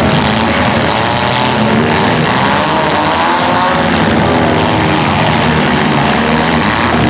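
Several compact cars' engines running and revving hard together in a demolition derby, their pitches rising and falling as the cars drive and ram one another.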